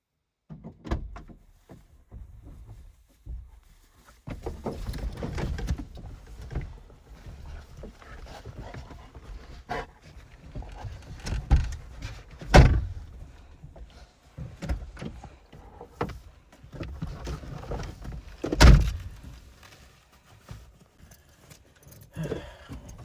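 Irregular knocks and thumps over a low rumble, with two sharp, loud thuds about twelve and a half and nineteen seconds in.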